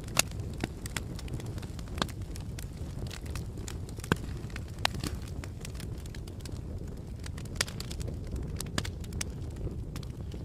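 Campfire burning with a steady low rumble of flames and irregular sharp crackles and pops from the burning wood, a few louder snaps standing out.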